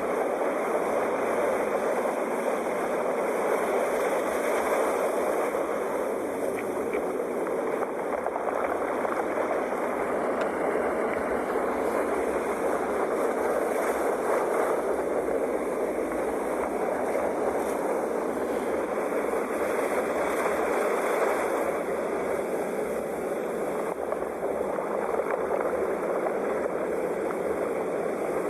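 Sea waves breaking on a shore: a continuous rush of surf that swells and eases every several seconds.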